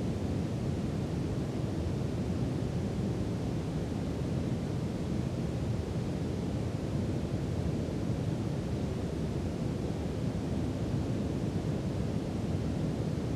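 Steady brown noise: a deep, even rush of noise, strongest in the bass and thinning toward the treble, holding one level throughout.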